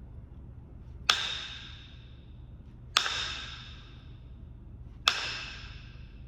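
Strikes on Kentucky hornstone during flintknapping: three sharp hits about two seconds apart, each leaving a short, clear ringing tone that dies away.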